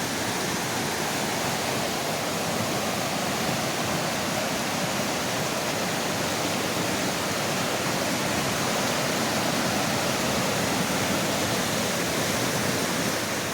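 Rain-swollen mountain creek rushing over rocks: a steady, full roar of fast whitewater.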